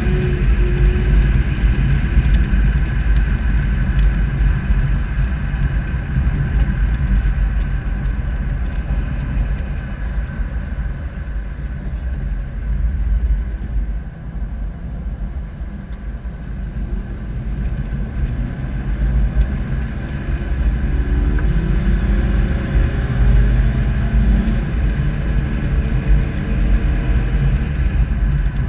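Low, steady rumble of a slow-moving SUV's engine and tyres, picked up by a camera on its bumper. It eases off for a few seconds near the middle, and about twenty seconds in an engine note climbs in pitch.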